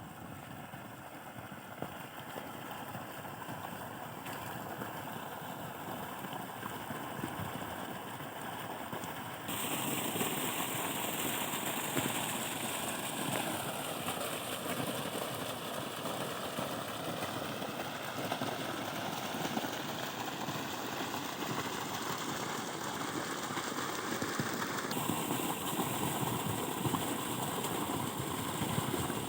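Diesel water-pump engine running steadily, mixed with the rush of pumped water. The sound changes abruptly, louder and brighter about a third of the way in and duller again near the end.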